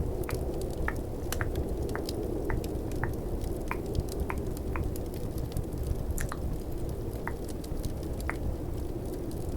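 Mouth-made tongue clicks, sharp and irregular at about one to two a second, over a steady low rush of snowstorm and crackling fireplace ambience.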